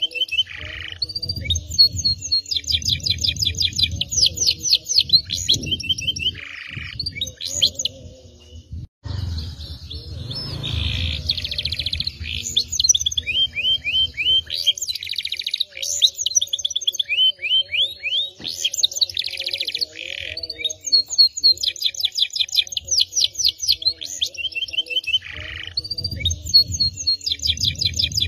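Domestic canary singing a long, continuous song of rapid trills and chirps, breaking off briefly about nine seconds in before carrying on. A low rumble runs underneath.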